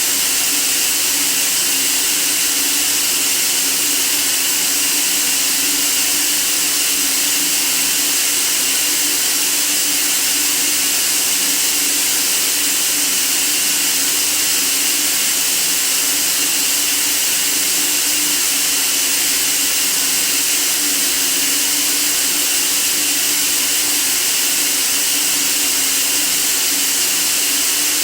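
Steady white noise: an even, unchanging hiss, brightest in the high end, with a faint low hum band beneath it.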